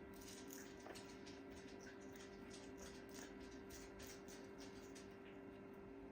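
Near silence with faint, irregular ticking clicks, several a second, over a steady low hum.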